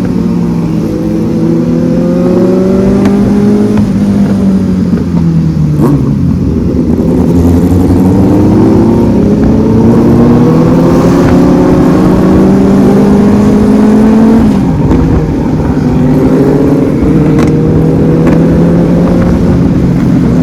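Superbike engine running under way, its pitch climbing slowly as it pulls and dropping sharply at gear changes about six and fourteen seconds in.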